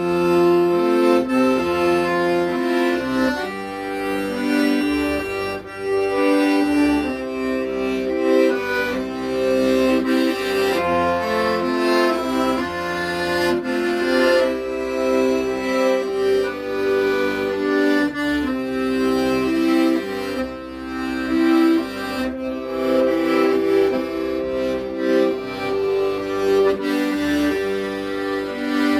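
Accordion playing a melody over held chords, with bass notes changing beneath them.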